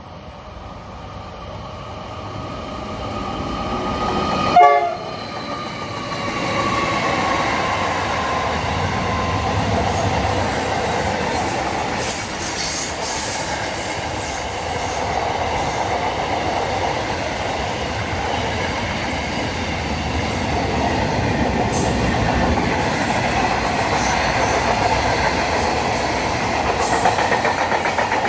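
A train passing. It grows louder as it approaches, its horn sounds about four and a half seconds in, and then a steady rumble and clatter of the cars runs on.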